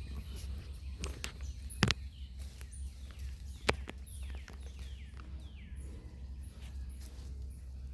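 Birds chirping in short falling calls, over a steady low hum, with a few sharp clicks or knocks, the loudest about two seconds in and again near four seconds.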